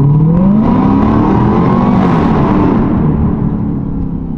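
Supercharged 6.2-litre Hemi V8 of a 2023 Dodge Durango SRT Hellcat with its mufflers cut off, accelerating: the engine note climbs for about two seconds, then levels off and eases back near the end.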